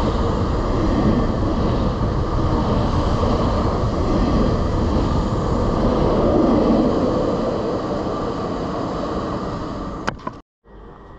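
Double-deck electric passenger train passing close by at speed: a loud, steady rush of wheels on rail and moving air that eases a little toward the end. Just after ten seconds it cuts off with a couple of clicks and a brief moment of silence, then a quieter sound begins.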